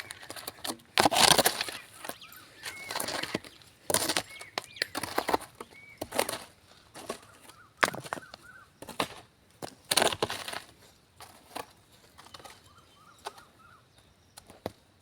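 Irregular rustling and crunching noises, loudest in the first half and fading toward the end, with short chirping bird calls between them.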